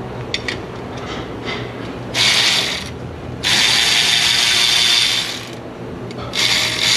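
Power ratchet spinning small nuts off the engine, in three bursts: a short one about two seconds in, a longer one of about two seconds, and a short one near the end, with a few light clicks of the tool before them.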